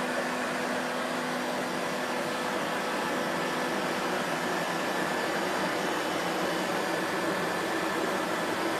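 Vacuum cleaner motor running steadily, a constant whooshing drone with a faint steady whine over it.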